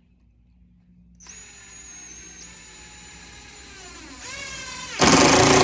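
Cordless power drill spinning up with a steady whine, its speed dipping near the end, then a loud grinding stretch of under a second as it drives into wood, before winding down.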